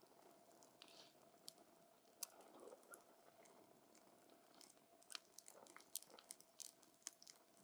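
Burning wood in a campfire crackling: irregular sharp snaps and pops over a faint, steady hiss.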